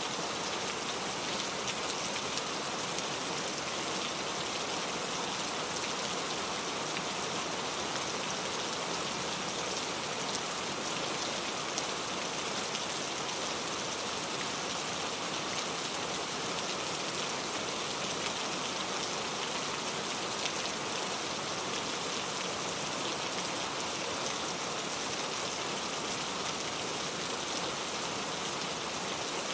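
Steady rain falling, an even hiss of drops pattering on surfaces with fine scattered drop ticks.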